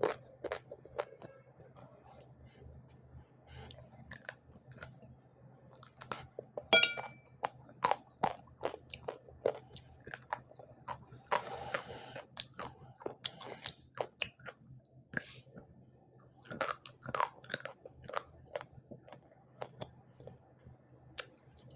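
Close-miked chewing and crunching of fried hilsa fish head, with irregular wet mouth clicks and crackles, and a single bright clink about seven seconds in.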